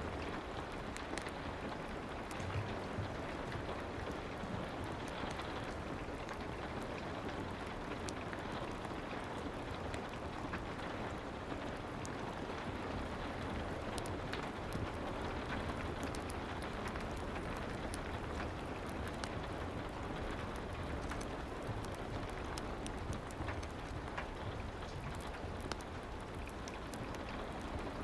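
Steady soft rain with many small scattered crackles and ticks, a rain-and-fireplace ambience.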